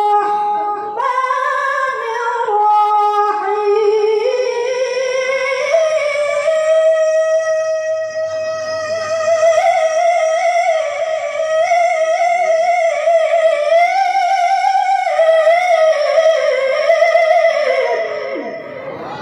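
A woman reciting the Qur'an in the melodic tilawah style. After a few short ornamented phrases she holds one long wavering note for about fourteen seconds, which rises a little in pitch partway through and falls away near the end.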